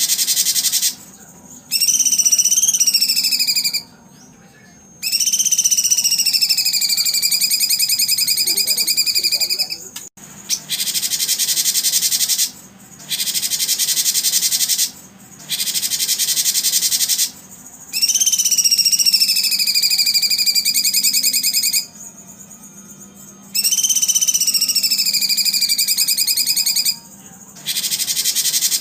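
Recorded songbird calls looped for training contest birds: rapid, dense buzzing trills alternate with long whistled notes that glide down and waver, each phrase lasting two to four seconds and starting and stopping abruptly, as if edited.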